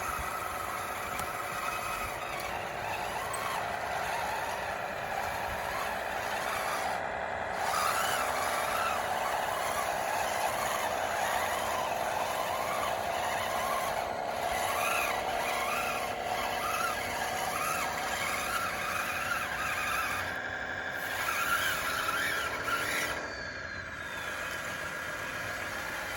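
Radio-controlled DXR2 model bulldozer running, its drive giving a steady whine with squeaks from the running gear. The whine gets louder about eight seconds in and drops back lower near the end.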